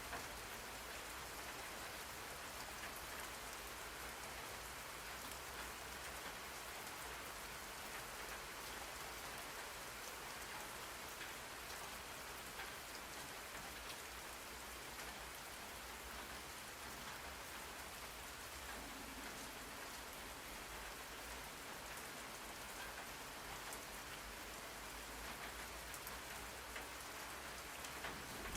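Steady rain falling on a surface: an even hiss of many drops that holds a constant level throughout.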